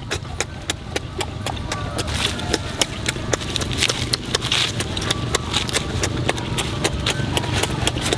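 Close-up mouth sounds of eating: loud lip smacking and wet chewing clicks, several a second in an uneven stream, as shrimp and lettuce are chewed.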